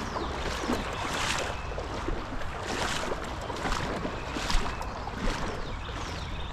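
Legs wading through shallow river water, a sloshing swish about every second and a half over a steady rush of water.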